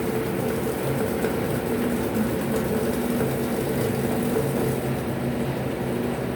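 Electrolux LF75 top-loading washing machine running its wash agitation: a steady motor hum over the churning of water and clothes, its tones breaking off and coming back every second or so.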